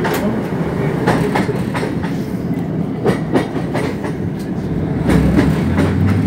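Running noise inside a Class 150 Sprinter diesel multiple unit at speed: a steady rumble from the wheels and the underfloor diesel engine, with clickety-clack as the wheels cross rail joints, often in pairs. About five seconds in, a low hum grows louder.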